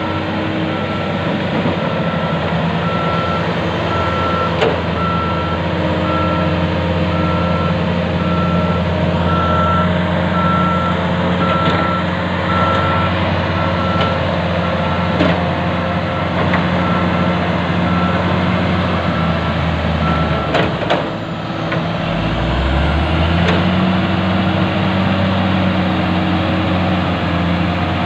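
Heavy diesel earthmoving machinery, an excavator and a crawler bulldozer, running steadily while a reversing alarm beeps about once a second. The beeping stops a little over two-thirds of the way through, and the engine note then dips and climbs again as a machine changes load.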